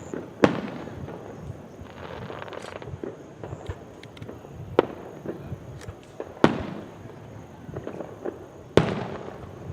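Aerial fireworks bursting: four loud booms, about half a second in, near the middle, at about six and a half seconds and near the end, each followed by a rumbling echo, with smaller crackling pops in between.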